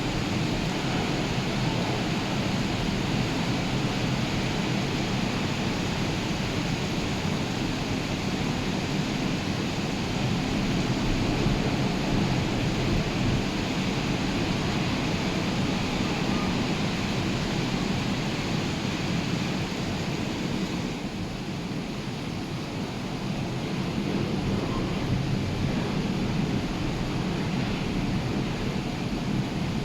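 Rough sea surf: a steady roar of breaking waves, with wind buffeting the microphone. It eases slightly about two-thirds of the way through, then builds again.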